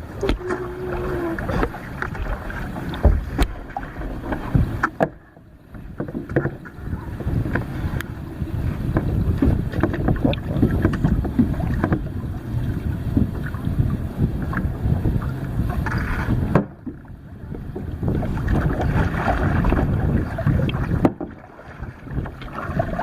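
Kayak paddle splashing and water sloshing against the hull, with rumble from wind on the microphone. It breaks off briefly a few times, between strokes.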